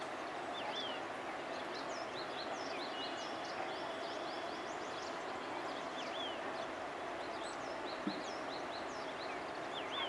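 Small wild birds chirping: many short, high chirps and whistles, some with falling notes, scattered over a steady background hiss.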